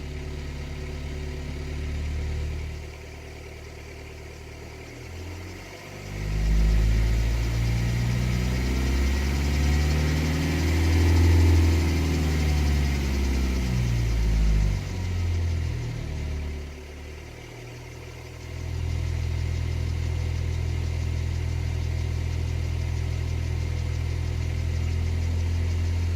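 BMW 123d's N47 four-cylinder diesel engine heard from inside the cabin, idling, then revved up and back down about six seconds in, then held steady for the last several seconds. The engine noise is what the owner takes for timing-chain noise, the known weak point of the N47.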